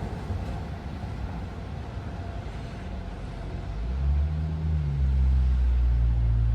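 Strong blizzard wind gusting, a low rumble that builds sharply about four seconds in.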